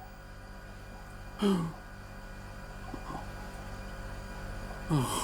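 A steady low hum, broken twice by a short grunt that falls in pitch, once about a second and a half in and again near the end.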